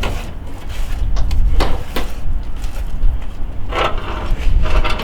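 Scattered clunks and clicks of hands working a car's front fender loose, over a steady low rumble.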